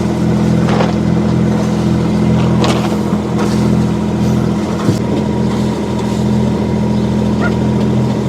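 Sailboat's engine running steadily at constant speed while motoring along a canal, an even low hum with no change in pitch.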